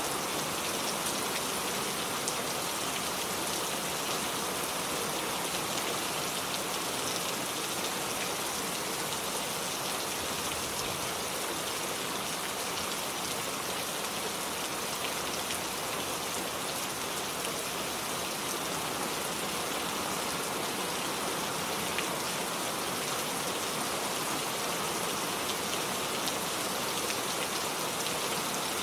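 Steady rain falling, with a dense patter of drops landing on surfaces and a few sharper drip ticks here and there.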